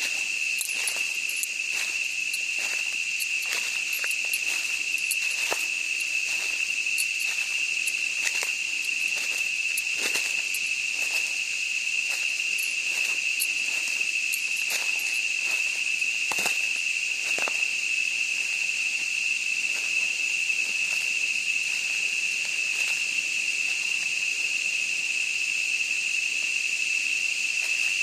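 A steady, shrill insect chorus holding one high continuous tone, with footsteps crunching through forest leaf litter at a walking pace that stop a little past halfway.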